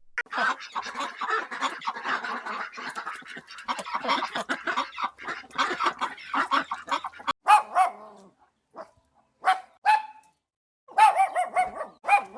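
Dogs barking. For about the first seven seconds many barks and yaps overlap one another; after that come separate single barks with short silences between them.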